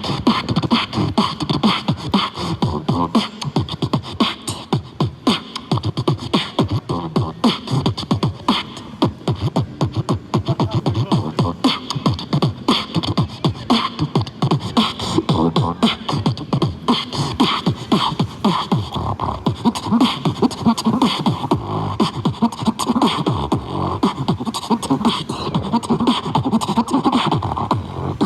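Continuous beatboxing: a dense, fast run of mouth-made kick, snare and hi-hat sounds in a steady rhythm.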